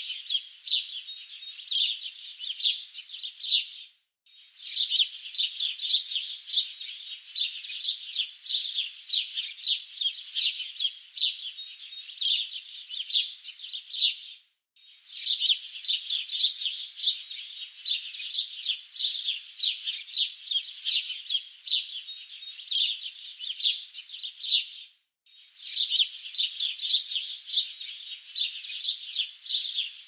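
Songbirds chirping and twittering in a dense, rapid run of high, quick notes, cut by short total silences three times, about every ten seconds.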